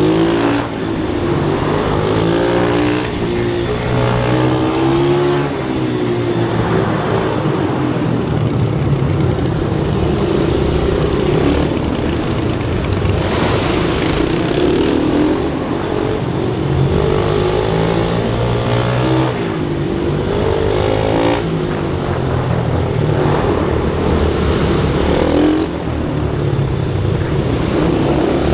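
Pit bike engine revving hard and easing off over and over, its pitch climbing and dropping every few seconds as the bike accelerates and slows around the track.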